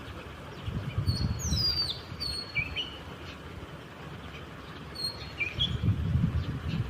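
Small birds chirping: short high call notes repeated several times, with one falling whistled note about one and a half seconds in, over a low rumbling noise that swells and fades.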